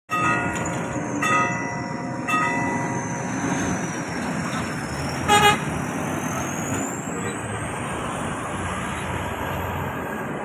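Road traffic running steadily at a railway level crossing, with a short, loud horn toot about five seconds in. In the first few seconds there are three fainter ringing tones about a second apart.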